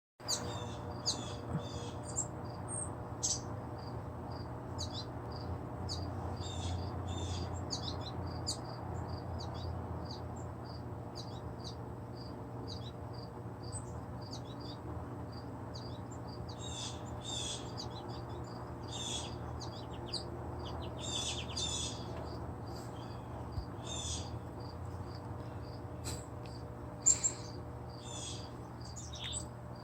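Yard songbirds chirping and trilling in short, scattered phrases, the loudest couple of chirps near the end, over a steady rapid high pulsing like an insect and a low steady hum.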